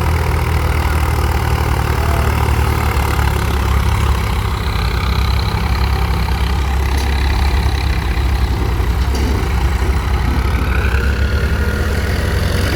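Diesel engine running steadily at idle with a low, even throb.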